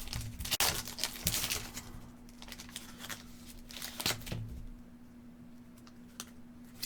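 Trading-card pack wrapper crinkling and tearing as the pack is opened, busiest in the first two seconds, then scattered light clicks and taps of cards being handled.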